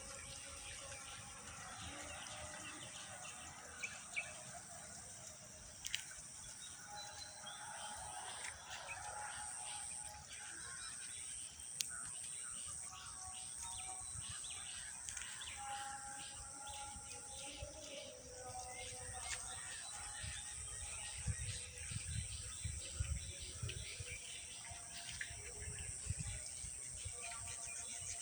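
Evening outdoor ambience: many birds chirping and calling over a steady high-pitched insect drone, with a low rumble in the second half.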